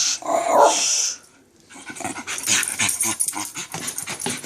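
Small dog making a short vocal sound, then a brief pause, then scuffling with a run of quick clicks and rustles as it moves about.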